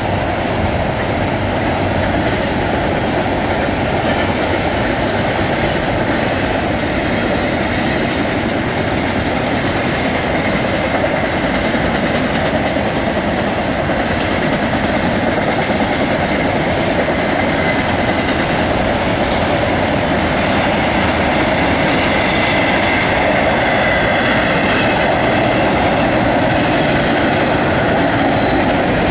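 CSX double-stack intermodal freight train's well cars rolling past: a steady, loud noise of steel wheels running over the rails.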